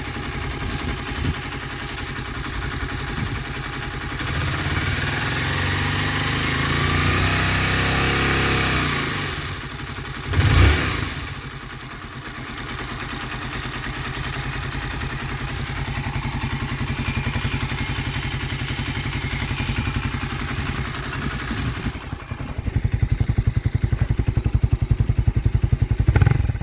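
Honda CBR125R (JC34) single-cylinder four-stroke engine running cold. Its engine speed climbs and then drops back between about four and ten seconds in, with a short, very loud burst just after ten seconds. It settles, then runs louder and more pulsing from about 22 seconds on.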